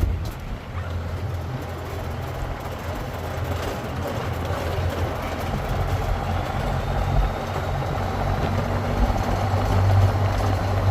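Old pickup truck driving on a rough unpaved road: a steady low engine and road rumble.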